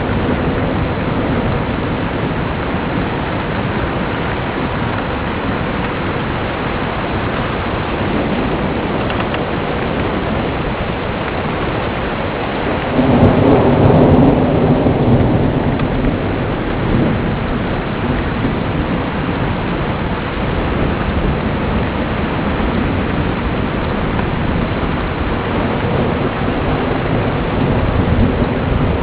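Steady heavy rain through a thunderstorm, with a rumble of thunder swelling louder about 13 seconds in and fading over the next few seconds. A faint steady hum sits under the rain.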